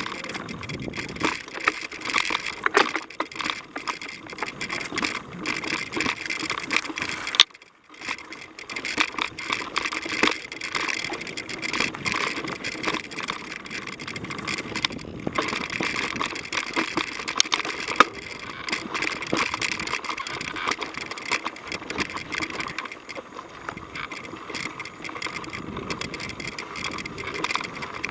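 Mountain bike ridden fast over a rough dirt trail: steady rattling and clattering from the bike over the bumps, with a few sharp knocks and a brief drop-out just under eight seconds in.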